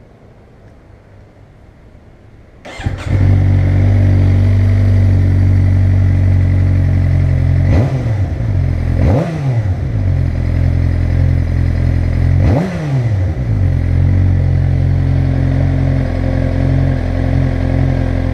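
2011 Suzuki GSX-R600 inline-four running on its stock muffler, with stock header and catalytic converter, comes in about three seconds in and idles steadily. It is revved three times, the pitch rising and falling each time, about five, six and nine seconds in.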